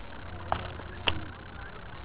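Two firework bangs about half a second apart, the second the louder, over a steady low background rumble.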